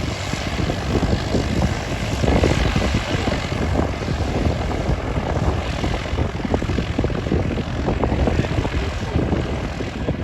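Propeller-driven piston engines of a B-17 Flying Fortress running steadily, a loud rough roar made of rapid uneven pulses.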